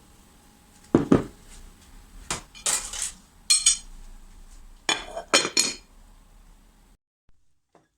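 Kitchen dishes and utensils being handled, a series of separate clinks and knocks over several seconds, then the sound stops abruptly.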